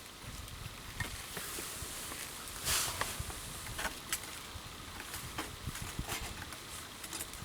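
Wood campfire crackling, with scattered sharp pops and a brief louder hiss about two and a half seconds in.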